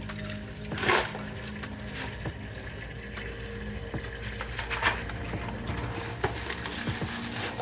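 Liquid splashing briefly twice, about a second in and again near five seconds, with light clicks and knocks of kitchen handling.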